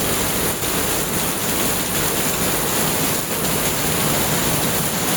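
Heavy rainstorm downpour: dense rain pouring down in a steady hiss.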